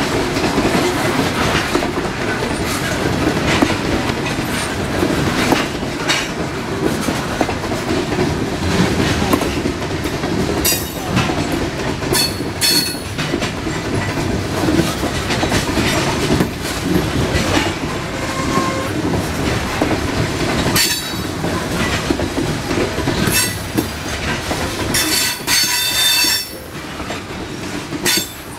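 Coal train hopper cars rolling past close by, steel wheels clattering and clacking over the rail joints. Several brief high-pitched wheel squeals come from about ten seconds in, bunched near the end.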